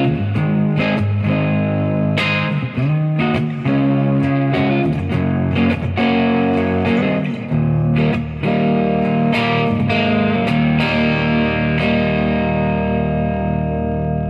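Overdriven electric guitar: a Gibson Les Paul through a Third Eye overdrive pedal into a Marshall amp, playing strummed chords and picked notes. From about halfway a low chord is held and rings on, with a few more notes picked over it, slowly fading.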